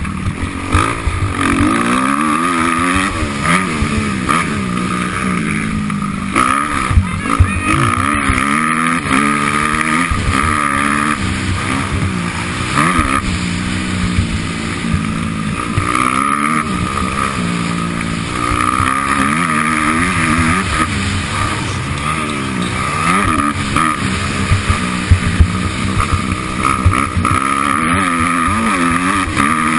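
Motocross bike engine running hard under race riding, its pitch climbing and dropping every second or two as the throttle is opened and shut through gears and corners, with frequent short knocks.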